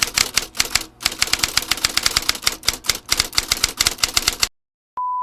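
Rapid, even clicking, about eight to ten clicks a second, that cuts off suddenly near the end; a steady beep tone starts just as the clip ends.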